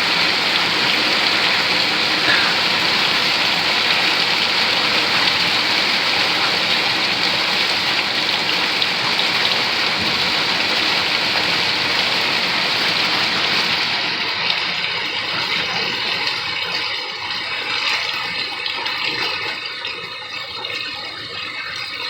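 Heavy rain pouring down in a steady, dense hiss. About fourteen seconds in, the sound turns thinner and more uneven, and it grows a little quieter near the end.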